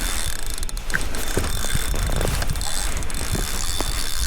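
Spinning fishing reel's mechanism clicking and ratcheting, the reel being worked with a fish near or on the line, over a steady low rumble.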